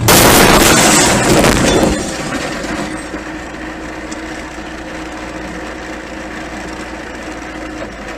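Car crash: a sudden loud impact with smashing and breaking that lasts about two seconds, then a steady lower noise with a faint held tone.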